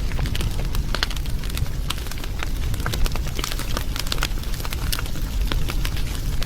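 Wood fire burning, crackling with many irregular sharp pops over a steady low rumble of the flames.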